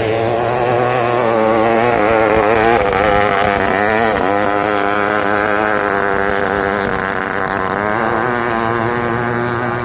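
Racing motorboat engine running hard, its pitch wavering up and down as the revs change.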